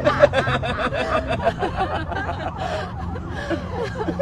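Several people chuckling and laughing amid chatter, in short choppy bursts.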